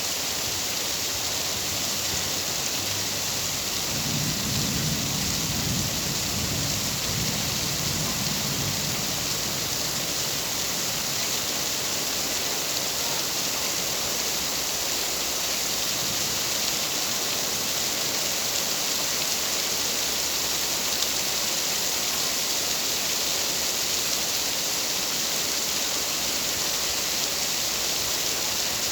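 Steady rain falling, an even hiss, with a low rumble of distant thunder from about four to nine seconds in.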